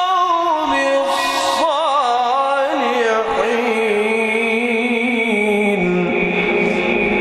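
A man's voice in melodic Quran recitation, drawing out one long held phrase with quick ornamental trills. The pitch slides gradually downward and the held note ends about six seconds in.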